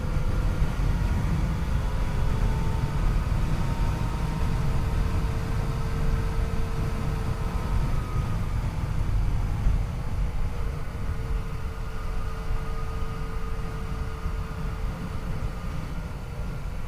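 Yamaha FJ-09's three-cylinder engine running steadily on the move, its pitch drifting gently up and down with the throttle, under a heavy low rumble of wind and road noise.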